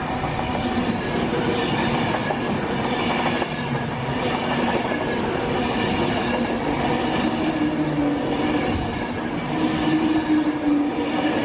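Passenger train moving through a station, a steady rumble of wheels on track with a machine whine of several tones that shifts slightly in pitch, rising a little near the end.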